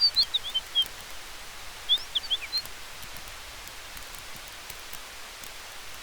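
A small bird chirps in two quick clusters of short, sliding high notes, one at the very start and one about two seconds in. Under them runs a steady hiss of wind through trees, with faint crackles from a campfire.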